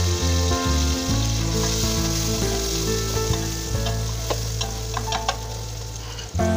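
Chopped ginger sizzling in hot oil in an aluminium pot, stirred with a wooden spoon that clicks and scrapes against the pot a few times, under background music.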